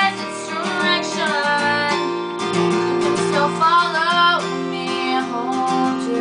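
Strummed acoustic guitar with a woman singing long, sliding held notes over it.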